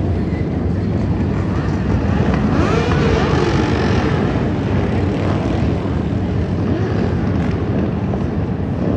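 Several motorcycle engines running together in a steady drone, with engine pitch rising and falling twice as bikes rev up and ease off.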